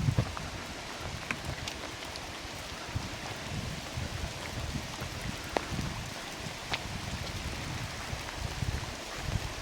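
Steady rain falling through a forest, with a few sharp drips landing close by.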